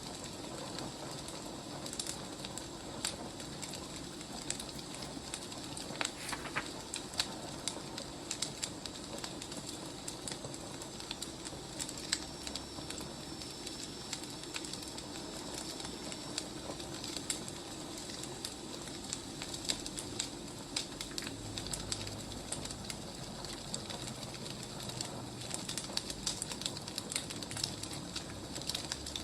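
Firewood burning in a fireplace: a steady hiss with irregular sharp crackles and pops.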